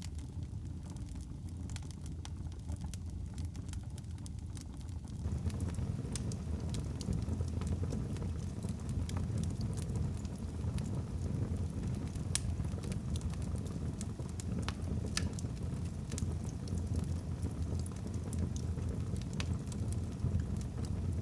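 Wood fire burning in a fireplace: a steady low rumble of flames with scattered sharp crackles and pops from the logs, growing louder about five seconds in.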